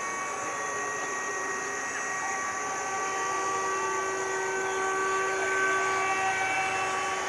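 Electric brushless motor and propeller of a radio-controlled model jet, a steady whine of several held tones that shift slightly in pitch as the throttle changes.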